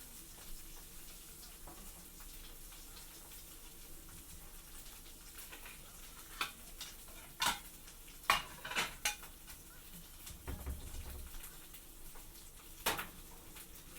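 Dishes and metal utensils clinking and knocking during cooking: a cluster of sharp clinks about halfway through, a dull thud, and one more clink near the end, over a faint steady hiss.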